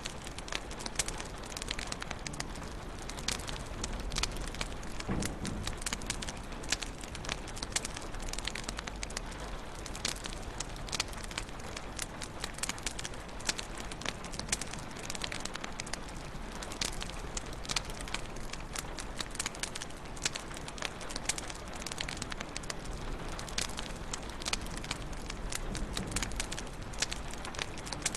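Wood fire crackling in a fireplace: a constant stream of sharp pops and snaps over a soft steady hiss.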